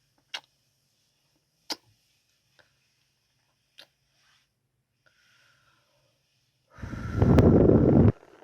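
ASMR kissing sounds close to the microphone: four short, sharp lip-smacking kisses spaced out over the first few seconds, then, near the end, a much louder rush lasting just over a second, pressed right against the microphone.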